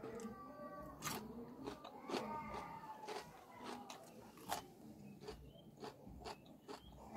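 Close-miked mouth sounds of a person chewing food with the mouth closed: soft chewing with frequent sharp wet clicks and smacks.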